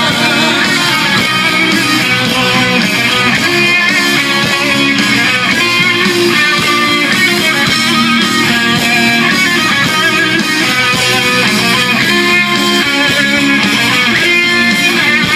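Rock band playing live, an instrumental passage led by electric guitar, with no singing.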